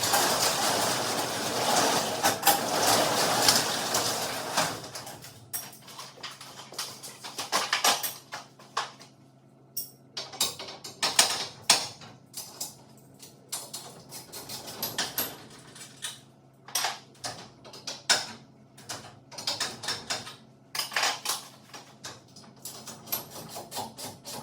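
Metal hardware being worked by hand: about five seconds of continuous rattling and scraping, then scattered sharp metallic clicks and clanks from tools and garage door parts.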